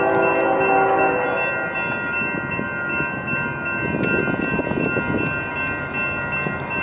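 Railroad grade-crossing warning bell ringing steadily as a train passes, with the rumble and clatter of the train on the rails. The locomotive horn sounds for about the first second, stops, then sounds again near the end.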